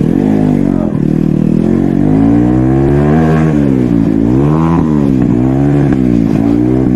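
Motorcycle engine revving up and down through the gears: the pitch climbs to a peak about three seconds in, drops, then rises and falls twice more near the end, over a steady low rumble.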